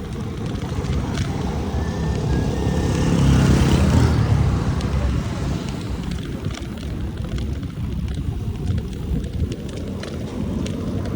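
Wind buffeting the microphone and rolling noise during a bicycle ride, swelling to its loudest about three to four seconds in, then easing off.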